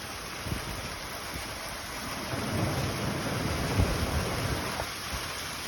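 Thunderstorm: steady rain hiss with a low rolling rumble of thunder that builds from about two seconds in.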